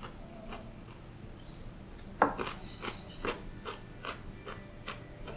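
A crisp bite into a snap pea about two seconds in, followed by crunchy chewing, about two or three crunches a second.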